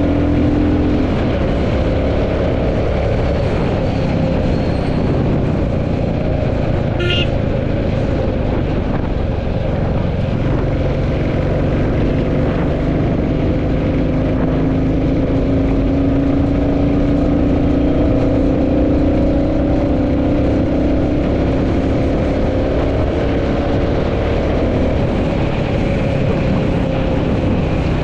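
Royal Enfield Classic 350's single-cylinder engine running steadily while cruising, its note drifting slowly up and down with the throttle. A short high-pitched beep sounds about seven seconds in.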